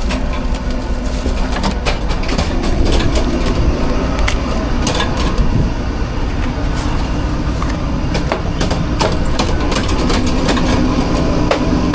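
Food truck kitchen prep: frequent short clicks, clinks and knocks of utensils, containers and equipment being handled over a steady low mechanical hum.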